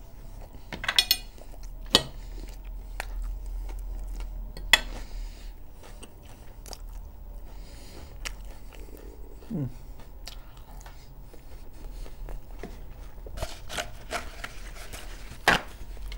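Close-miked mouth sounds of someone chewing fried liver and bread, with a few sharp clicks of a fork on a plate.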